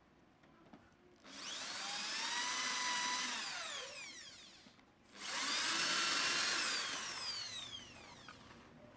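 Handheld electric power tool run twice, each time for about three seconds; the motor's whine rises in pitch and holds, then falls away as it winds down.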